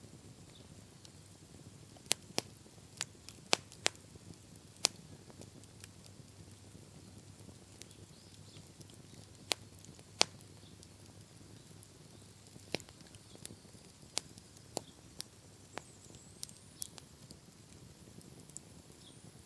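Wood campfire crackling: sharp, irregular pops and snaps over a faint steady hiss, most of the loudest pops coming between about two and ten seconds in.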